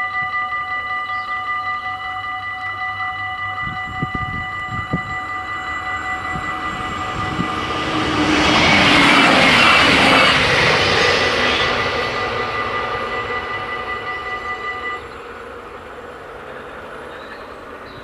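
Level-crossing warning bells ringing in a rapid steady pulse while a LINT 41 diesel railcar passes, the train's noise swelling to its loudest about nine to ten seconds in and then fading. The bells stop about fifteen seconds in, once the train has cleared the crossing.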